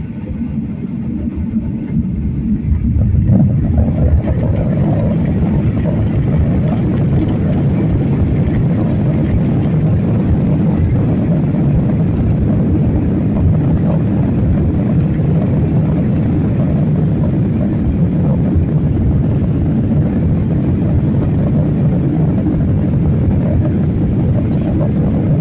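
Airliner engines heard from inside the passenger cabin: the noise builds over the first few seconds as the engines spool up, then holds as a steady, loud low-pitched noise.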